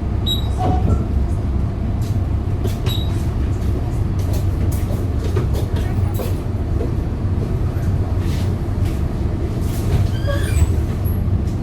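Hyundai Green City CNG city bus running, heard from inside the cabin: a steady low engine drone with frequent small rattles and clicks from the body and fittings.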